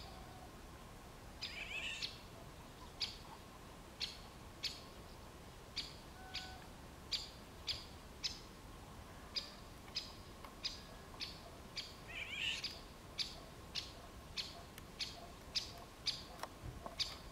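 Birds calling: short, sharp high notes repeat about once or twice a second, coming faster toward the end. Twice, about a second and a half in and again about two-thirds through, comes a longer harsh rasping call, the cat-like call of a Eurasian golden oriole.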